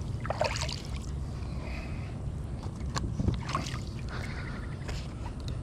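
Kayak being handled on the water, with light knocks against the hull and faint water sounds over a steady low rumble. There is a sharper knock about three seconds in.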